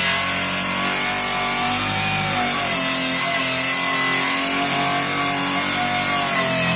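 Electric power saw running through pressure-treated lumber. The motor note dips and recovers as it takes the load of the cut.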